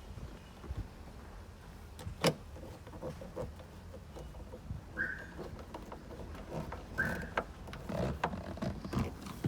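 Scattered clicks and knocks of dashboard trim being fitted back into a car cabin, with one sharper knock a little over two seconds in and two short squeaks about halfway through and later.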